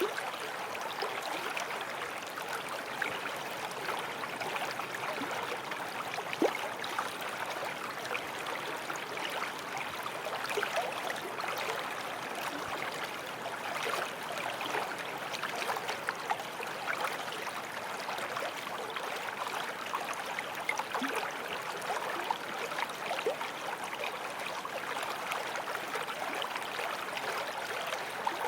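Small forest stream flowing steadily over stones, a continuous rushing with fine splashes and gurgles throughout.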